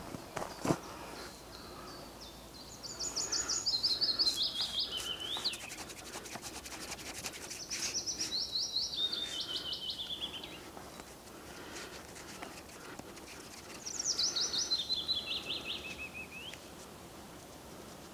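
A songbird sings three times, each song a quick run of notes falling in pitch in steps.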